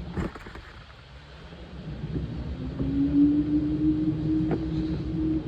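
Washing machine drum motor speeding up over a low rumble: a hum rises in pitch and settles into a steady tone about three seconds in.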